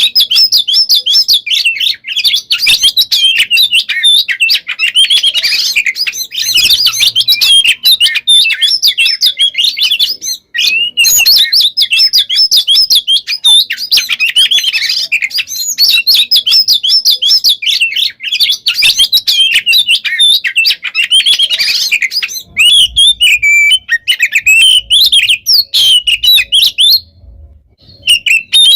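Oriental magpie-robin (kacer) singing nonstop in a dense, fast stream of sharp whistles and trills, the rapid run of 'shots' and 'rolls' that keepers call 'konslet', a sign of a bird in full singing condition. The song breaks off briefly about ten seconds in and again near the end.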